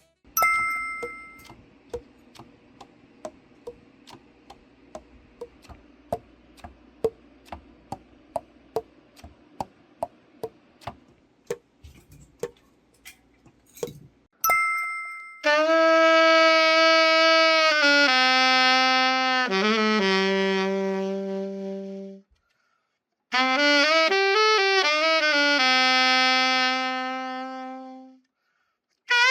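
Yamaha YAS-82Z alto saxophone played solo: long held notes stepping down in pitch, then after a short break a phrase with bends into the notes. Before it comes a run of light clicks, about two a second and speeding up, with a short ringing two-tone chime at the start and again just before the playing.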